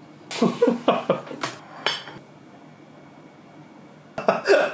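Dishes, cutlery and glassware clinking and knocking on a table: a quick run of knocks and clinks in the first two seconds, then another short cluster near the end.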